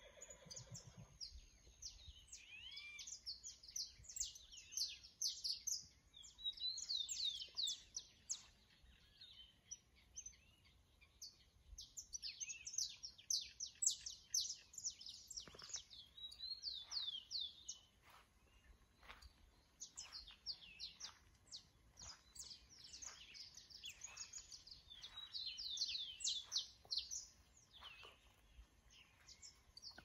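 Songbirds chirping and singing: bouts of quick, high, sweeping notes that come and go, faint and overlapping.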